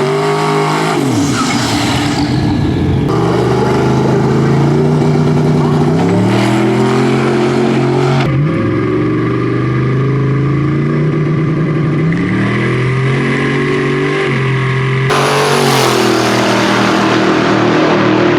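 Twin-turbocharged 427 LSX V8 in a Silverado pickup at full throttle on a drag strip. Its pitch climbs and then steps as the automatic transmission shifts, several times over, and the sound changes abruptly a few times.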